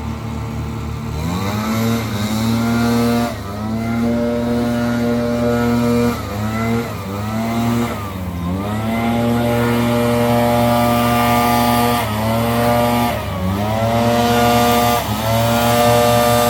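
Leaf blower engine revving up from idle about a second in, then held at high throttle with several brief dips in pitch as the throttle is eased off and opened again.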